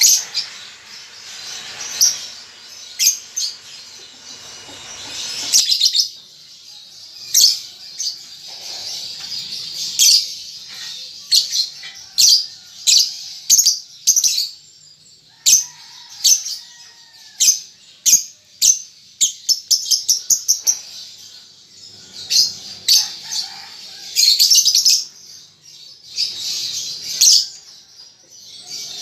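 Young lovebirds chirping: short, sharp, high ticking chirps, often in quick runs (the 'ngetik' call), with a few longer chattering trills (the 'ngekek') near the end.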